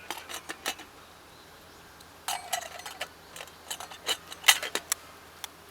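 A rapid, irregular series of light clicks and clinks of small hard objects being handled, with one brief ringing clink about two seconds in.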